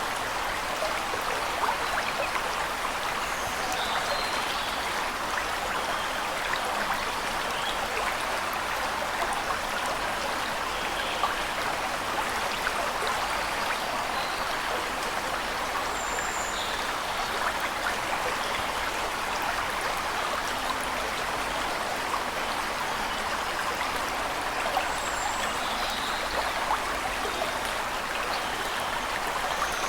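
Waterfall water rushing steadily, with faint, scattered bird chirps now and then.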